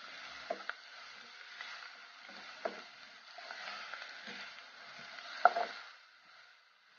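Sliced onions and curry leaves sizzling in hot oil in a non-stick pot, stirred with a wooden spatula that taps and scrapes against the pan, one tap a little louder about five and a half seconds in. The sizzle dies down near the end.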